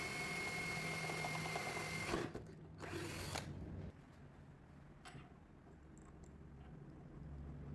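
Electric power tool running with a steady high whine, switched off about two seconds in; two short bursts of noise follow, then only a faint low hum.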